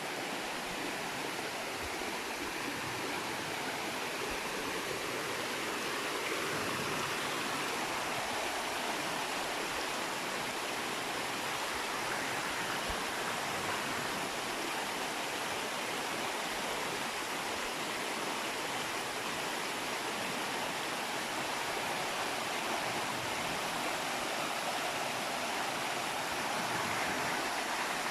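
Small waterfall pouring over rocks: a steady, unbroken rush of falling water.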